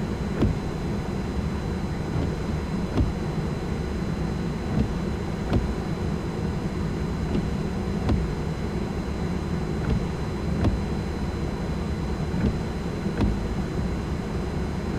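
Steady low rumble of a vehicle running, with a short click recurring about every two and a half seconds.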